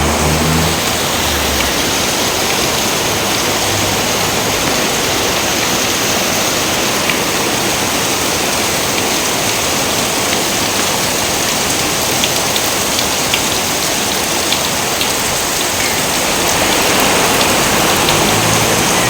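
Steady, heavy rain falling, an even dense patter, with a few sharper individual drop ticks now and then.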